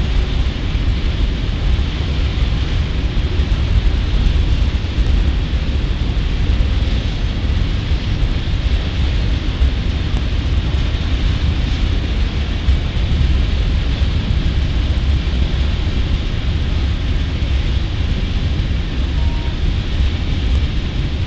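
Freight train of open hopper cars rolling steadily past on the track, a continuous rumble with a hiss of wheel and rail noise.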